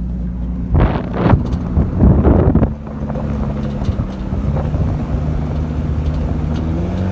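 Lexus IS300's 2JZ-GE inline-six running through an aftermarket cat-back exhaust, cruising at about 1500 RPM, heard from outside the moving car. Strong wind gusts hit the microphone from about one to three seconds in, then a steady low exhaust drone. The owner thinks a not-yet-tightened mid-pipe joint is adding extra noise.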